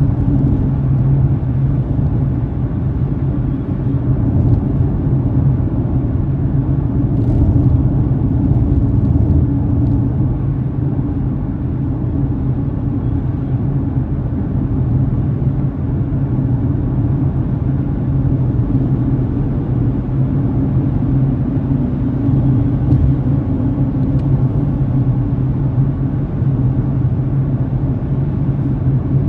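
Steady low rumble of a car driving along the road, tyre and engine noise heard from inside the moving car, with a constant low hum.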